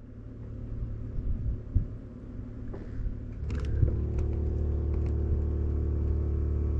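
An engine running steadily. It grows louder over the first three or four seconds, then holds an even drone, with a few light clicks partway through.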